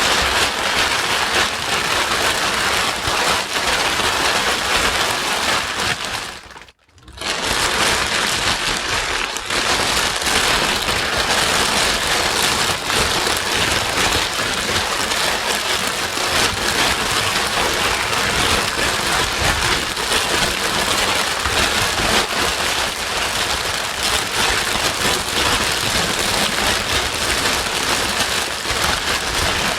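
Steady white noise with a dense, rain-like hiss, cutting out briefly about seven seconds in before resuming.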